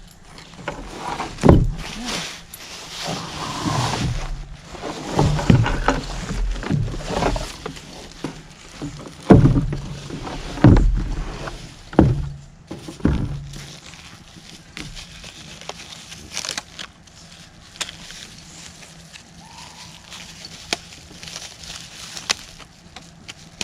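Rustling, bumping and knocking from a flexible solar panel and its packaging being handled. The handling is busiest in the first half, then dies down to scattered light clicks.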